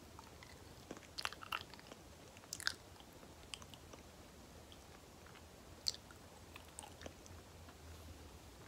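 Close-miked banana eating: soft, sticky chewing with wet mouth clicks and smacks. The clicks come in small clusters at about one and a half and two and a half seconds in, with a single sharp smack near six seconds.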